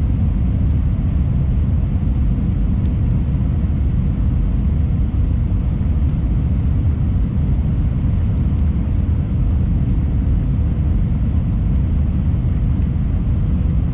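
Airliner cabin noise: a steady low rumble of engines and airflow heard from a passenger seat, with a faint steady tone above it.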